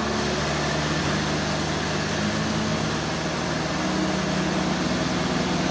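Engine running steadily under a dense noise, its pitch shifting slightly about a second in and again near four seconds.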